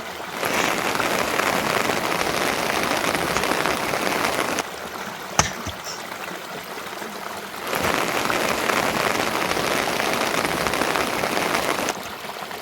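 Steady rain falling, a dense even hiss, which softens for a few seconds in the middle. A single sharp click is heard about five seconds in.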